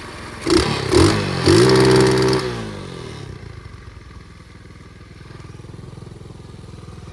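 Flywing pit bike engine revved: two quick throttle blips, then a longer rev held for about a second. It falls back to a low, steady idle.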